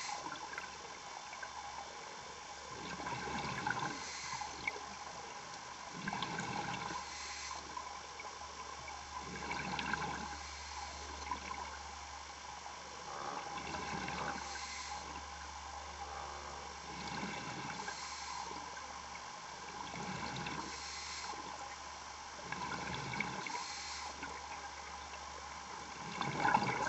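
A scuba diver's breathing heard over a diving communication line: a regulator hiss and bubbling exhaust about every three to four seconds, over a steady electronic hum.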